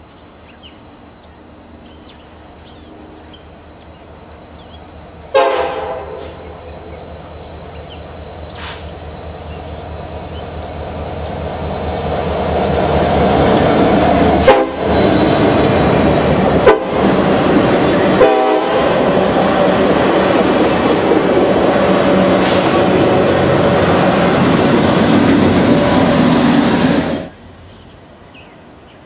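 Norfolk Southern diesel freight locomotives, an SD70M-2 and a D9-40CW, approaching and passing close on a long train. A short horn blast sounds about five seconds in. The rumble of the engines and the rolling wheels then builds until it is loud, with a few sharp knocks, and cuts off suddenly near the end.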